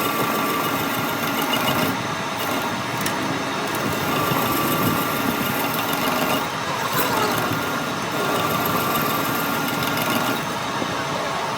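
A metalworking machine running steadily, with a whine that fades in and out a few times over a constant mechanical clatter.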